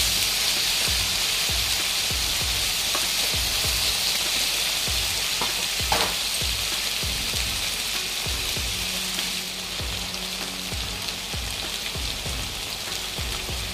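Sliced ivy gourd frying in oil in a nonstick kadai, with a steady sizzle. At first a slotted spatula stirs the pieces and scrapes the pan.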